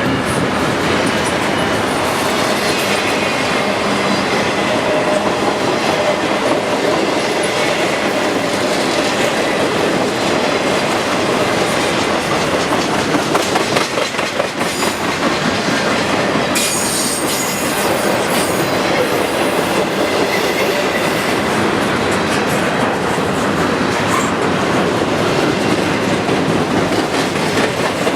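Intermodal freight cars rolling past on the rails: a steady loud rumble of wheels on track with repeated clicking over the rail joints. A high wheel squeal rises about two-thirds of the way through.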